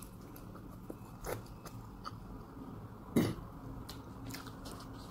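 A person chewing a mouthful of pizza, with faint mouth noises and a few short sharp sounds, the loudest about three seconds in.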